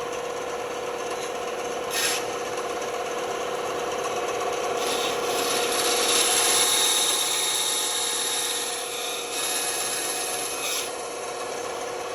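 Band saw running with a steady hum, its blade cutting wood. The cutting grows louder from about five seconds in to about eleven seconds, with a short burst about two seconds in.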